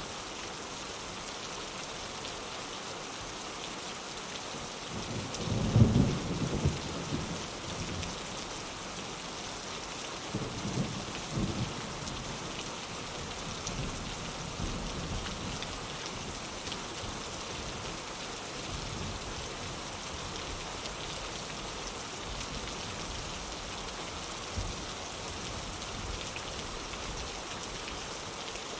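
Steady rain falling on a window, with thunder rumbling loudly about six seconds in and a weaker roll of thunder a few seconds later.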